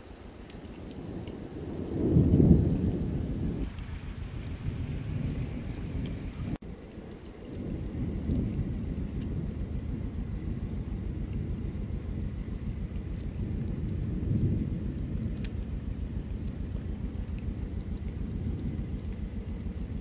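Steady rain falling and dripping off a rock ledge, under a deep low rumble that swells several times, loudest about two seconds in. The sound breaks off briefly about six and a half seconds in.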